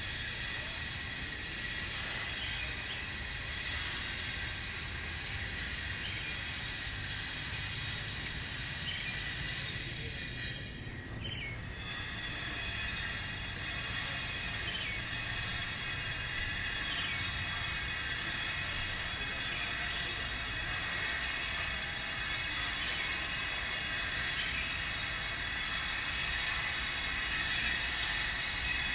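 A power tool cutting or grinding stone, a steady high whine over a hiss, that eases briefly about ten seconds in and then carries on.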